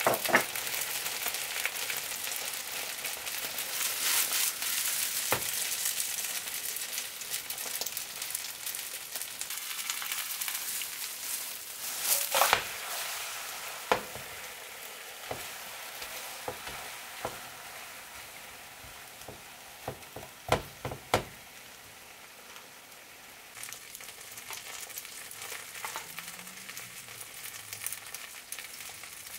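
Seafood and green onion pancake (pajeon) sizzling in oil in a frying pan, with a dozen or so sharp knocks scattered through it. The sizzle eases off in the middle and picks up again near the end.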